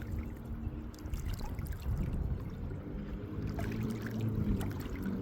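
Lake water lapping and trickling, over a low steady hum.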